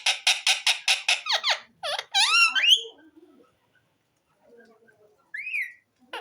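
Indian ringneck parrot calling: a fast chattering trill for about a second, then several gliding, swooping whistles, and after a short pause one brief rising whistle near the end.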